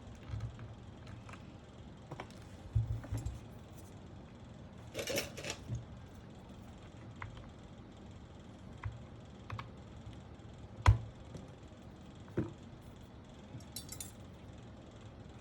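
Scattered clicks and light knocks from mechanical keyboard parts being handled and fitted, with a brief rustle about five seconds in and one sharp click a little before eleven seconds.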